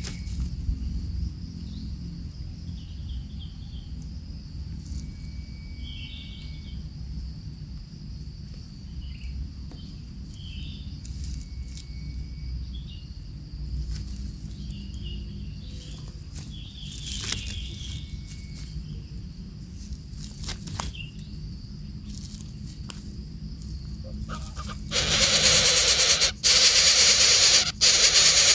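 Outdoor ambience: short, repeated bird chirps over a steady high insect drone and a low rumble, with a few clicks. From about three seconds before the end a loud hiss takes over, dropping out briefly a few times.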